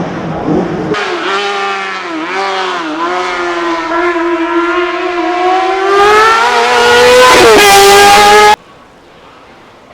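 Race car engine at high revs, its pitch dipping briefly several times, then growing much louder and rising about six seconds in before cutting off abruptly; faint background noise remains after.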